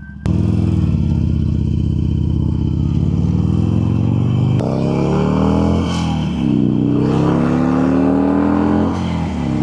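Harley-Davidson Sportster's V-twin engine running under way, steady for a few seconds, then accelerating twice. Its pitch climbs each time and drops back at the gear change.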